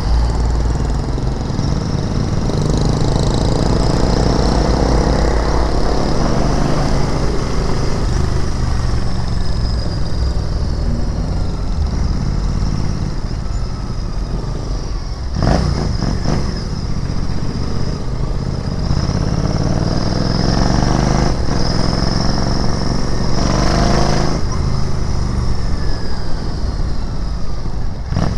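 Royal Enfield Interceptor 650's parallel-twin engine under way, its pitch climbing and falling again several times as the bike accelerates through the gears and eases off. A sharp clack sounds about halfway through.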